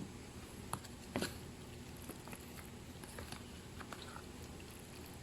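Spoon stirring elbow macaroni and cheese in a bowl: faint, soft wet sounds with scattered light clicks, the clearest about a second in.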